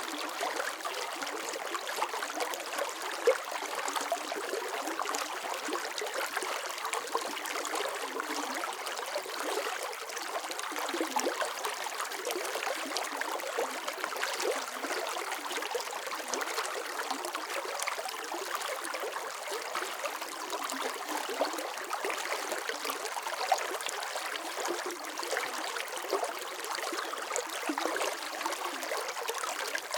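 Running water flowing steadily: an even rush with fine, rapid flicker and no deep rumble, broken by two brief louder splashes, one about three seconds in and one near the end.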